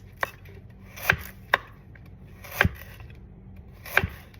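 Butcher knife chopping through carrots, about five sharp knocks at uneven intervals as the blade comes down.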